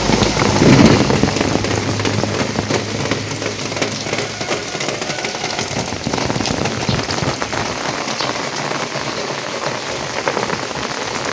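Steady rain falling, an even patter of many fine drops, with a brief louder low rumble about a second in.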